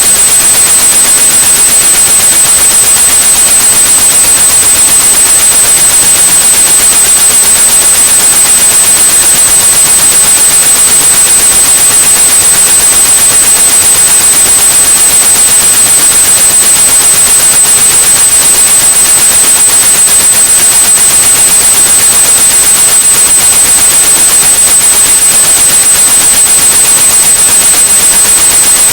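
Synthetic white noise with a steady high-pitched 8100 Hz sine tone mixed in, played loud: a tinnitus-masking track meant to cover the ringing in the ears.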